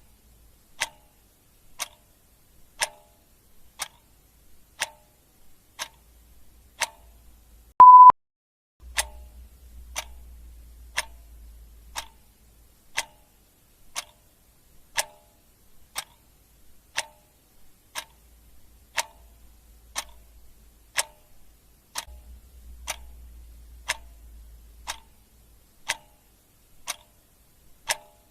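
Clock ticking steadily, about once a second, with one short high beep about eight seconds in.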